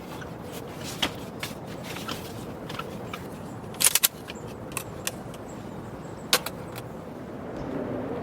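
Scattered light clicks and clinks over a steady hiss, with a sharp double knock about four seconds in and another knock a couple of seconds later.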